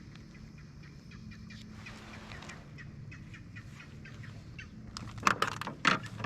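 A bird calling in a run of short, irregular chirps, then two loud knocks near the end.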